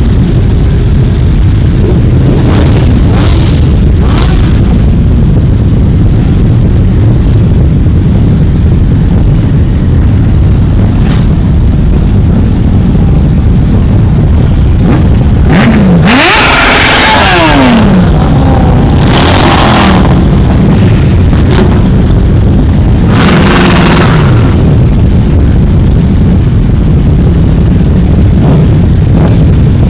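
A stream of motorcycles riding past with a continuous low engine rumble. Three louder bikes accelerate by about halfway through and later, their engine note dropping in pitch as they pass.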